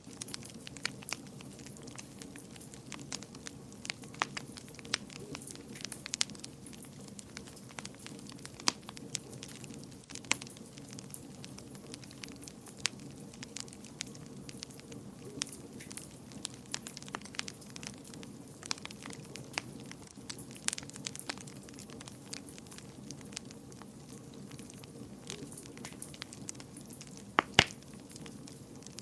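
Fire burning in a fireplace: a steady low rush of flames with frequent sharp crackles and pops, the loudest pop coming near the end.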